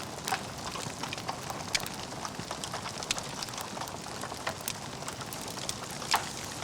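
Logs burning in a fireplace, crackling with irregular sharp pops over a steady hiss; the loudest pop comes near the end.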